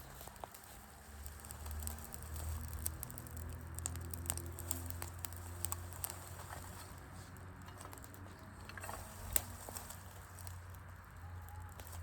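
Wood fire crackling in an outdoor fire pit: irregular small pops and snaps of burning wood, with one sharper pop about nine seconds in, over a low steady rumble.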